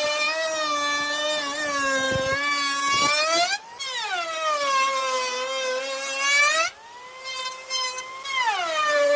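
High-pitched whine of a woodworking power tool's motor. The pitch sinks and holds lower while it bites into the wood, glides up and runs higher and quieter for about a second and a half past the middle as it spins free, then drops again under load near the end.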